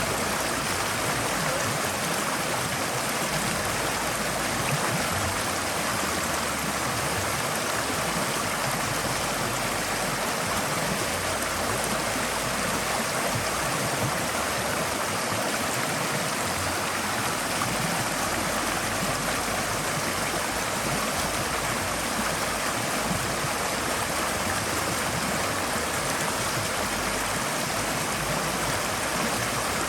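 Forest stream flowing over rocks, a steady rushing and splashing of water with no breaks.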